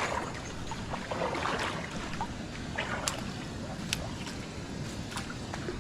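Footsteps wading through a shallow creek: water sloshing and splashing, with scattered small knocks and clicks.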